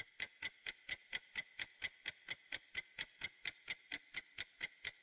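Quick, even clock ticking, about five ticks a second: a quiz countdown-timer sound effect.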